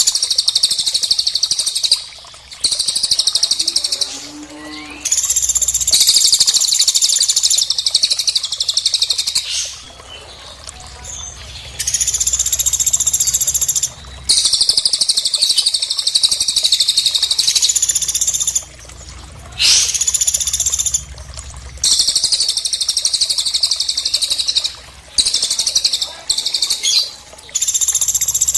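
Bird-training recording of cililin and woodpecker calls: long bursts of rapid, high-pitched trilling chirps, each a few seconds long and separated by short pauses, with a quick rising whistle or two in between.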